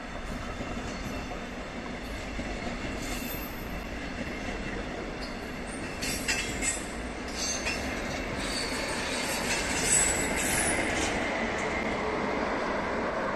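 A double-deck regional train with a class 112 electric locomotive rolls slowly over the station tracks, its wheels squealing in high tones through the middle and the rail joints clacking. The rolling noise grows louder toward the end.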